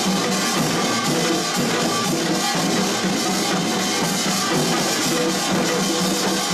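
Korean pungmul percussion ensemble playing: drums and gongs struck together in a dense, continuous rhythm.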